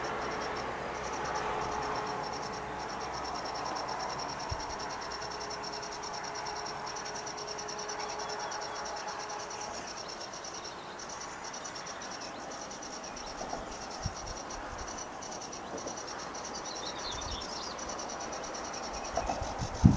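A continuous high-pitched, cricket-like trill that runs steadily, with a brief break about halfway, over a soft background hiss. A few short chirps come in near the end, and a single dull thump sounds just before the end.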